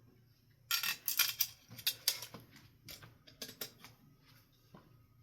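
Small metal hardware and fittings clinking and rattling as they are handled, a quick cluster of sharp clicks about a second in, then scattered single clicks.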